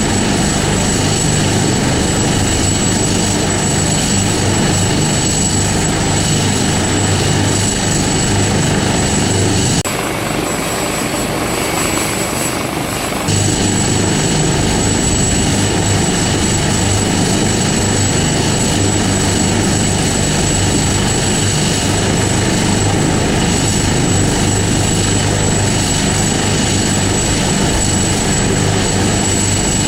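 Helicopter running steadily, a high steady turbine whine over a low rotor drone. About ten seconds in, the sound thins and drops slightly for about three seconds, then returns.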